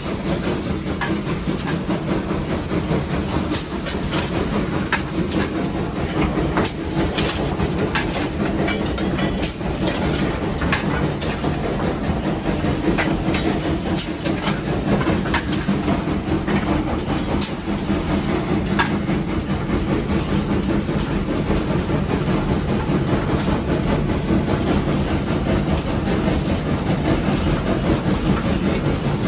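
Steam locomotive heard from inside its cab while running on the rails: a steady rumble and hiss, with scattered sharp clicks and clanks from the wheels and running gear.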